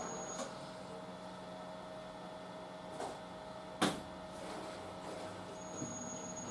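Drum-type washing machine turning, a steady motor hum, with one sharp knock from the drum just under four seconds in.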